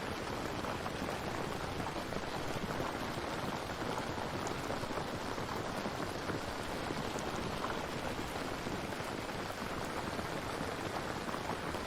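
Steady rain falling: an even hiss of rain on surfaces with scattered faint drops.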